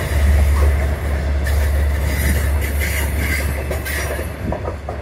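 Long Island Rail Road diesel train of bilevel coaches rolling past on an elevated viaduct: a steady, loud rumble that starts to fade near the end as the rear cab car goes by.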